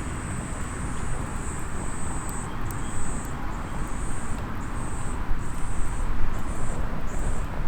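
An insect singing high and thin: one steady trill for the first two and a half seconds, then evenly spaced chirps somewhat under two a second. Underneath is a steady low rumble of wind, surf or distant traffic, with a few faint crackles from a small wood fire.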